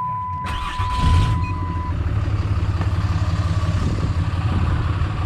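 Dodge Ram's 6.7-litre Cummins turbo diesel engine running, with a burst of noise about half a second in. A steady electronic warning tone stops about two seconds in.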